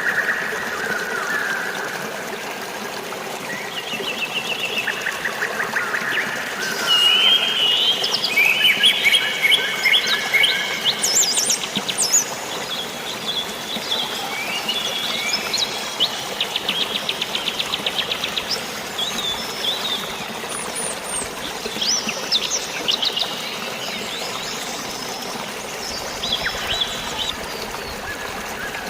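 Several birds chirping and trilling in quick rapid series, over a steady hiss of flowing water.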